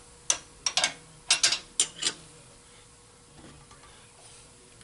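Sharp metallic clicks and clanks of steel tooling being handled on a valve-seat cutting machine, about eight of them in the first two seconds, as the cutter setup is taken off the freshly cut seat.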